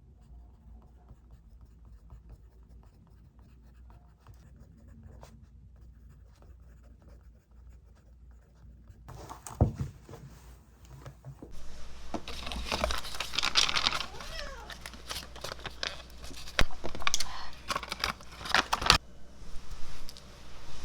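Faint room tone for the first half, then a couple of knocks and a stretch of handling noise: rustling and crinkling with sharp clicks, which stops shortly before the end.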